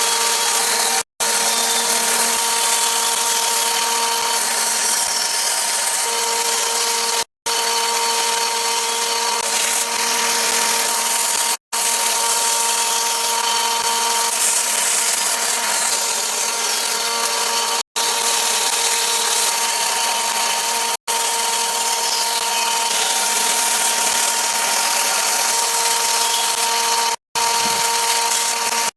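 Electric power tool running at a steady speed with a constant whine, cut by six brief drop-outs to silence.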